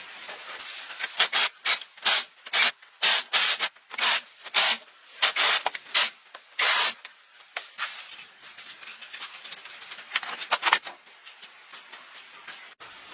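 Repeated hand rubbing or scraping strokes, about two a second, for several seconds, then a pause and a few quicker strokes near the end.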